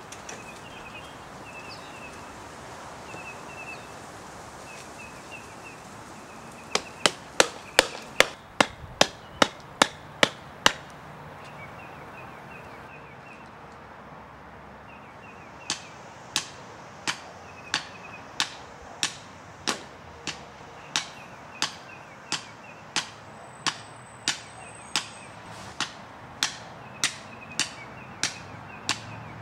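Sharp hammer-like strikes, likely a sign stake being driven into a lawn. A quick run of about a dozen blows comes about seven seconds in, then after a pause a slower, steady series of about one blow every two-thirds of a second.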